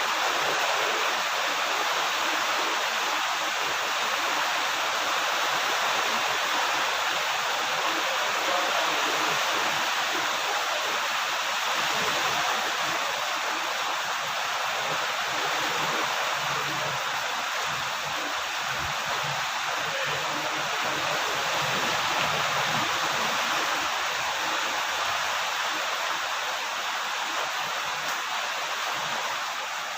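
Steady heavy rain: a dense, even hiss of falling water with no separate drops or thunder standing out.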